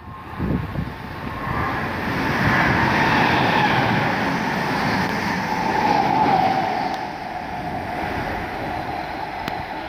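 Electric multiple-unit passenger train passing close by at speed: wheels on rails rumbling and a whine that sinks slightly in pitch as it goes by. It swells over the first couple of seconds and eases off in the last few.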